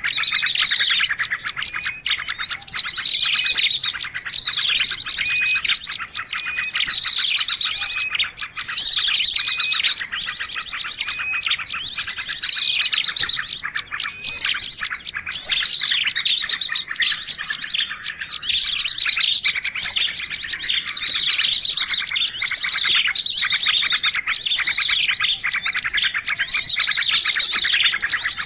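Bird-lure recording of many small songbirds chirping and twittering at once, a dense, unbroken chatter of quick, high, rising and falling calls.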